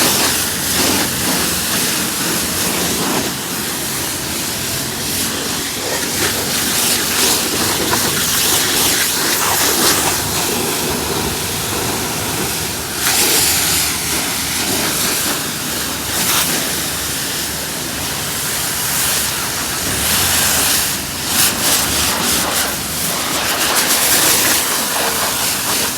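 Pressure-washer water jet spraying with a steady hiss that swells and eases as the spray moves.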